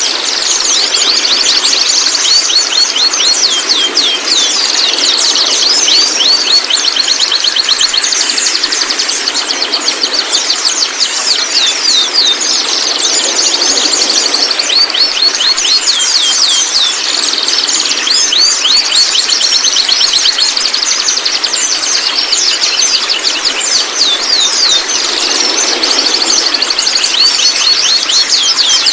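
White-rumped shamas giving their 'trotol' chatter: dense, loud runs of rapid, short downward-sweeping call notes, one after another without a break.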